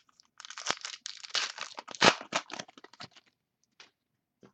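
Trading card pack wrapper being torn open and crinkled, a dense run of crackling and rustling that is loudest about two seconds in, followed by a few small clicks as the cards are handled.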